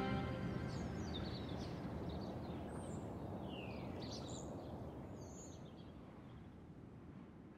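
Outdoor ambience: small birds chirping and singing in short calls over a steady low background hiss, all slowly fading down toward the end.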